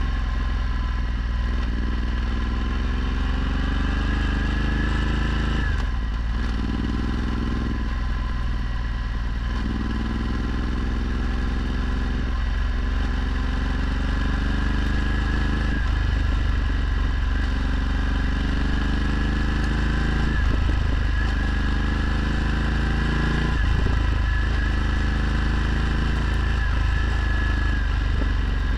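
Ducati Multistrada 1260's V-twin engine running through a Termignoni exhaust while riding. The engine note climbs in pitch and drops back several times as the bike pulls through the gears, over a steady wind rush.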